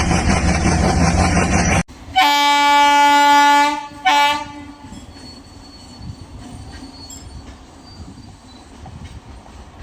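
Loud rushing train noise cuts off abruptly, then a WAP-4 electric locomotive's horn sounds one long blast and one short blast. A much quieter rumble of the moving train with faint clicks follows.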